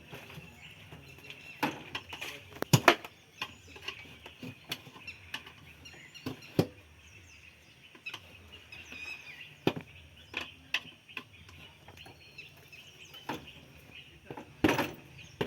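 Scattered sharp metallic clicks and knocks of hand tools during motorcycle tyre puncture repair work, loudest about three seconds in and again near the end, with birds chirping faintly in the background.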